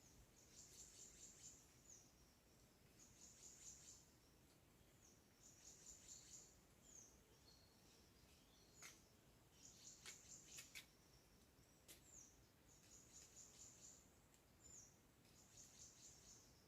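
Faint, high-pitched trilled phrases from a small bird, each about a second long and repeated roughly every two seconds, with short falling chirps between them. A few sharp clicks come in the middle.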